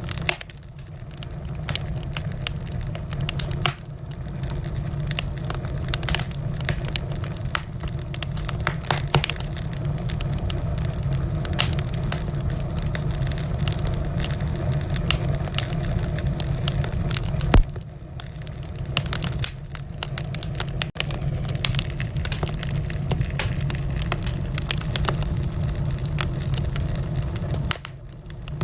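Wood fire burning in a fireplace: irregular crackles and pops over a steady low rumble of the flames, with one louder pop a little past halfway.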